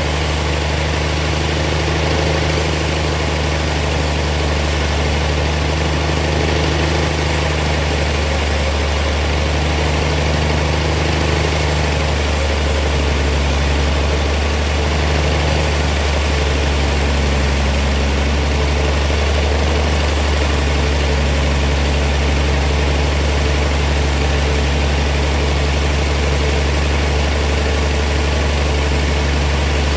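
Sawmill machinery running steadily with a deep, even hum.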